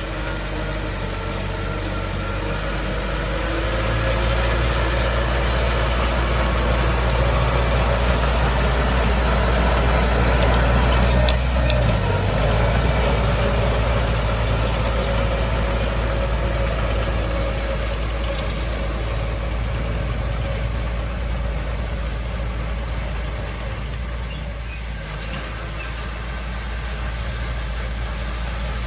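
Diesel engine of heavy earthmoving machinery running steadily under work, a low drone with a faint higher whine, with a short click about 11 seconds in and the low rumble changing pitch about 12 seconds in.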